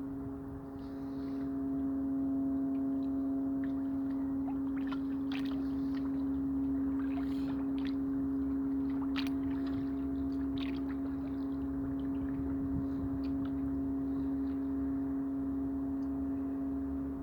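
Water washing, with a steady low hum running throughout, and scattered sharp ticks and small splashes in the middle.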